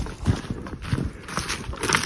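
Footsteps of people hiking over rough mountain ground, a step about every half second or less.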